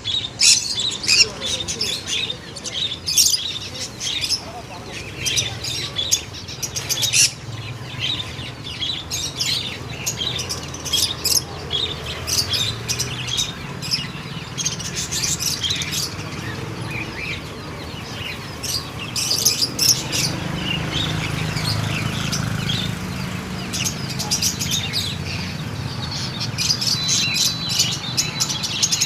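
A group of conures calling: many short, overlapping chirps and squawks with no pause, over a low steady hum.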